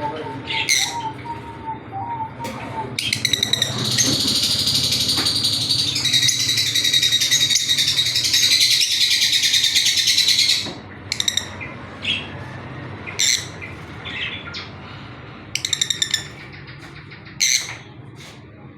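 Parblue lovebirds chattering: scattered sharp, high chirps, then a dense, continuous high-pitched twittering that breaks off suddenly about ten and a half seconds in, followed by scattered chirps again.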